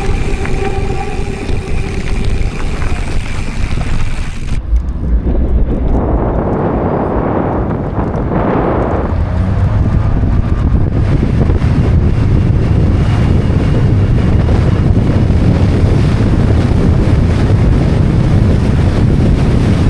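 Wind buffeting on the microphone with a heavy low rumble from a mountain bike rolling over the trail at speed.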